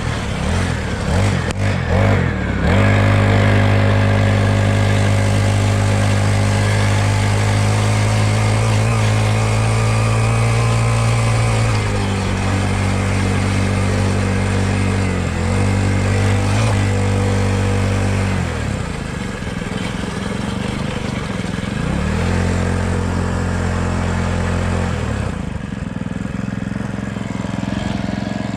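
Dirt bike engine running, its pitch falling and coming back up several times as the throttle is let off and opened again.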